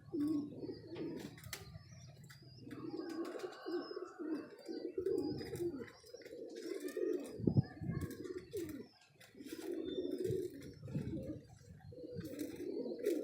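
Domestic pigeons cooing over and over, with scattered short clicks and taps among them.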